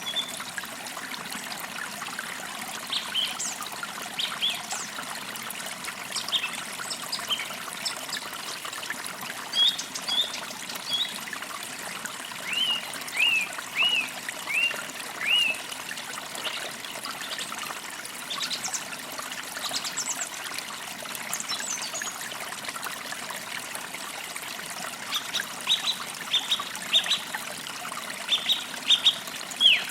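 Creek water trickling steadily, with birds calling over it: a run of about five falling notes around the middle, and a quick cluster of sharp falling chirps near the end.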